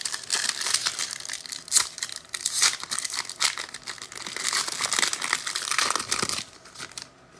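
Foil trading-card pack wrapper being torn open and crinkled by hand, a dense crackling that dies away about six seconds in.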